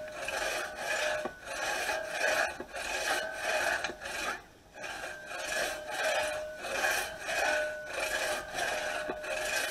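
Restored two-man crosscut saw cutting through wood in a steady back-and-forth rhythm of rasping strokes, with a short pause about halfway and a faint ringing tone from the blade on some strokes. Its teeth are sharp, cutting with hardly any pressure on the saw.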